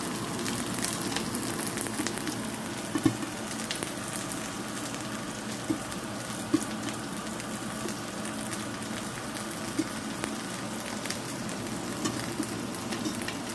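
Korean squid-and-green-onion pancakes sizzling in oil in a nonstick frying pan, frying on their second side after being flipped. A steady crackle with a few louder pops scattered through.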